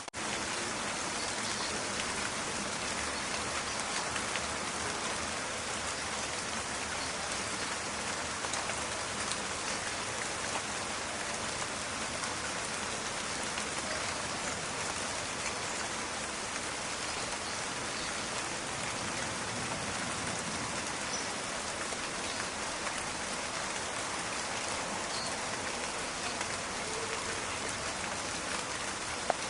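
Steady rain, with individual drops crackling and ticking among the even hiss. A single sharp click stands out near the end.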